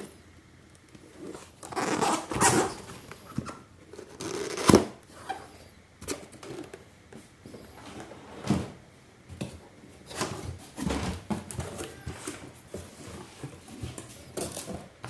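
Packaging being handled while parts come out of the box: irregular rustling, crinkling and scraping, with one sharp knock about five seconds in.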